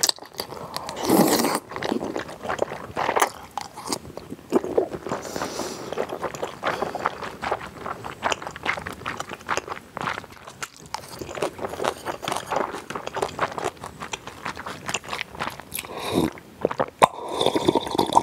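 Close-miked eating: biting and chewing a chilled pigs' feet salad with crisp sliced vegetables and wide glass noodles, a dense run of crunches and wet mouth clicks.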